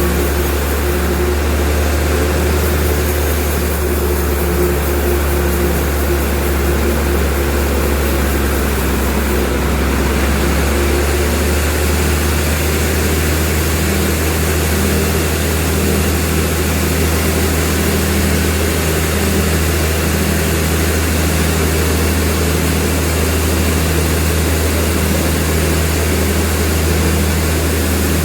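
Sawmill machinery running with a steady, loud low hum and a machine drone; the low tone shifts slightly about a third of the way through.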